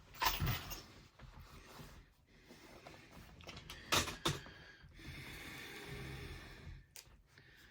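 Handling noise of rod parts being fitted together by hand: a knock shortly after the start, two more around the middle, and a couple of seconds of rubbing or scraping later on.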